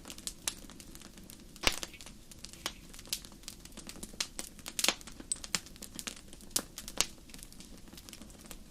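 Wood fire in a fireplace crackling, with irregular sharp pops of varying loudness over a low steady rush of flames; a few louder pops stand out, the strongest about a second and a half in. The sound cuts off suddenly at the end.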